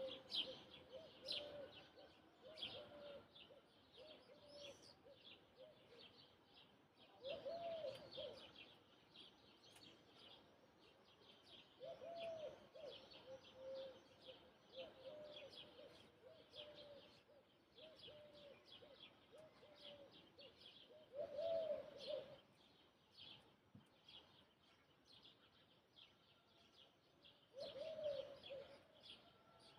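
Faint morning birdsong: small birds chirping with high, quick notes, while a dove coos in a low repeating phrase, its strongest coos coming every few seconds.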